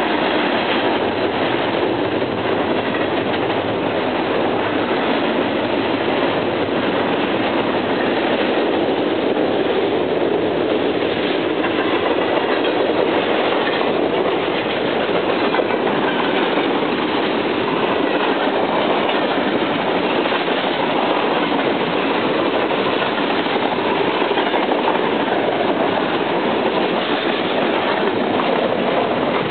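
A Norfolk Southern freight train's cars rolling past close by on a steel trestle: a loud, steady rumble and clatter of steel wheels on the rails.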